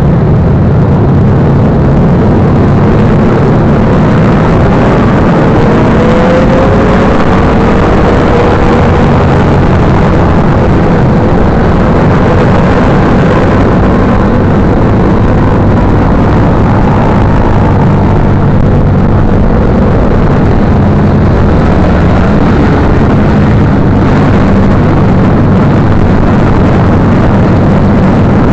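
Motorcycle engine running, loud and steady, with its pitch gliding a little a few seconds in.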